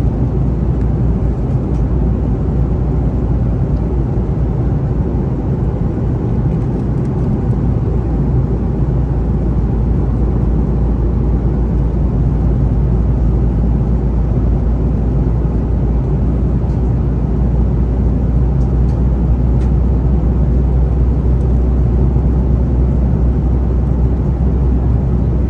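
Steady low rumble of a moving vehicle heard from inside its cabin, an even drone of engine and travel noise with no distinct events.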